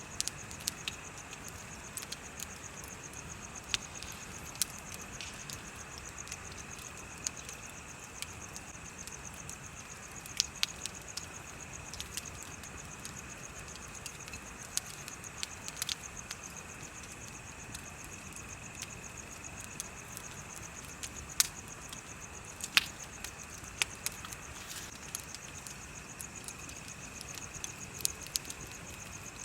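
Bonfire crackling, with irregular sharp pops from the burning wood, a few of them loud. Under it runs a steady chorus of insects chirping at two high pitches.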